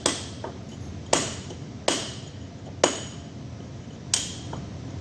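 Hammer striking metal, five blows roughly a second apart, each leaving a short metallic ring.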